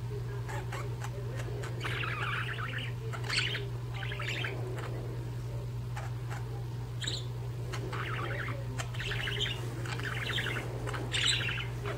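Pet budgerigars (budgies) chirping and chattering in a run of short warbling bursts, one every second or so, over a steady low hum.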